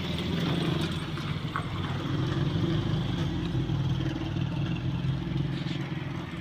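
An engine running steadily at a low, even pitch, as from a vehicle or machine at the road works.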